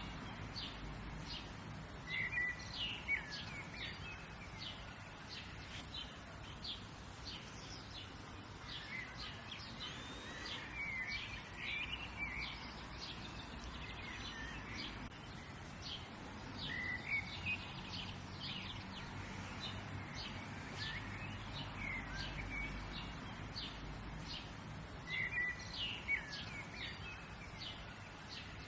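Several songbirds chirping and singing, with short chirp phrases coming thick and fast and louder bursts of song every few seconds, over a low steady background rumble.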